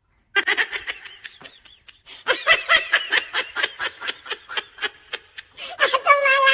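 Someone laughing in rapid, repeated short bursts, ending in a longer held note.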